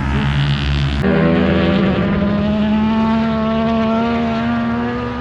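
Racing motorcycle engines running hard at high revs: a steady pitched engine note that climbs slightly in pitch. For the first second a lower engine drone is heard, which cuts off abruptly.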